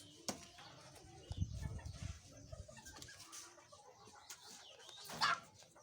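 Fowl clucking and calling, with low thuds a second or so in and one loud, short call about five seconds in.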